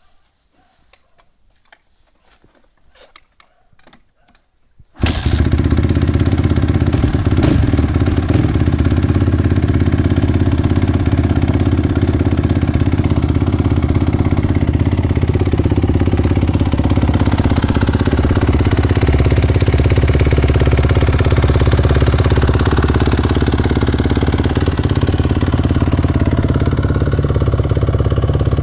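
A 2012 Kawasaki KX250F's four-stroke single-cylinder engine is cold-started. After a few faint clicks and knocks, it fires abruptly about five seconds in and keeps running steadily.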